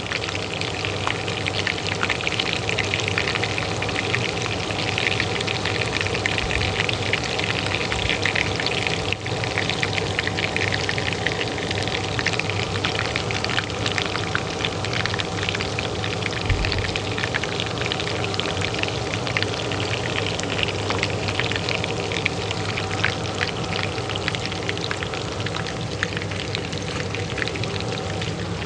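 Oil frying in a pan with a dense, steady crackle, over the steady hum of a kitchen range hood fan.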